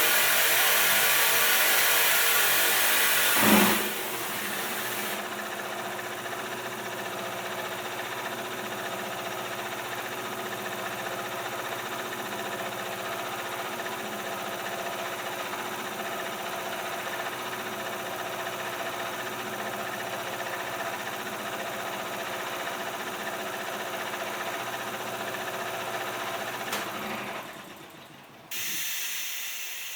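Machinery in a clothes-cleaning plant. A loud hissing rush ends in a brief surge a few seconds in, and then the machines run with a steady hum and whine. Near the end the hum dies away and a sudden hiss of steam starts.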